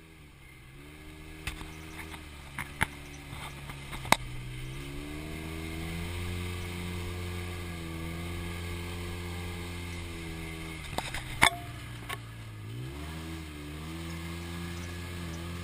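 Polaris RZR 4 side-by-side's engine running under way, its pitch dipping and rising again a few times with the throttle. Several sharp knocks cut through, the loudest about eleven seconds in.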